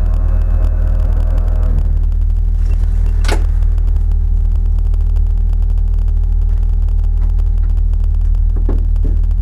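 Off-road vehicle's engine idling, a steady heavy rumble. A humming tone over it fades out about two seconds in, and there is a single sharp click a little over three seconds in.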